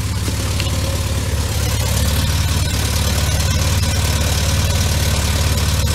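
Škoda 120's rear-mounted four-cylinder petrol engine idling steadily, warming up after a cold start.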